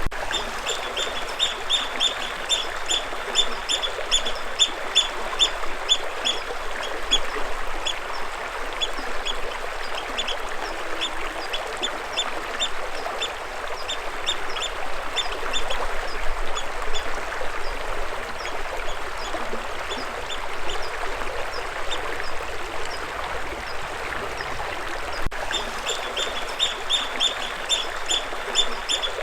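Water flowing steadily in a stream, with a bird calling over it in runs of short, high chirps, about three a second; the chirps thin out in the middle and come thick again near the end.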